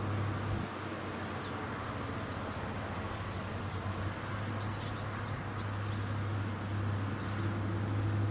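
Rice combine harvester engine running steadily with a low, even hum, with faint short high chirps scattered over it.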